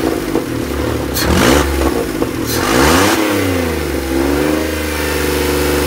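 Rebuilt Seat Ibiza 1.2 12V three-cylinder engine (AZQ/BME) running and revved twice, about a second in and again around two and a half seconds in, then settling back to a steady idle.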